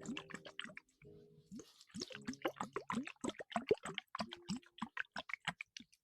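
Rapid, irregular wet plopping and clicking sounds, several a second, many with a quick rising pitch like drops hitting water, with a brief lull about a second in.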